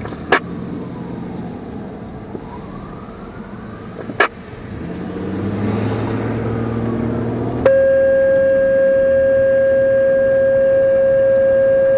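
Fire engine responding: its siren wails faintly while the engine revs up, with two short sharp clicks. About eight seconds in, a loud steady horn tone starts suddenly and is held.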